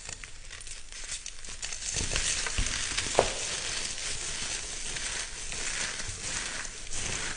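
Dense, continuous crackling and crunching of something crisp being crushed into crumbles. It grows louder about two seconds in, with one sharper crunch near the middle.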